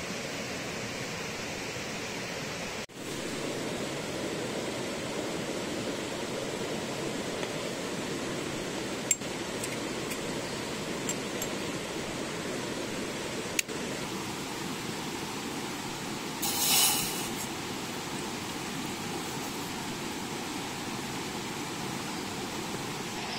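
Steady hiss of rain, with two sharp clicks and a short, louder high hiss about two-thirds of the way through.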